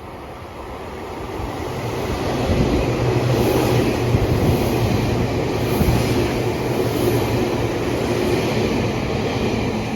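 A Meitetsu electric train (set 1111F) running through the station at speed without stopping. The rumble of its wheels on the rails builds over the first couple of seconds, then holds loud and steady as the cars rush past.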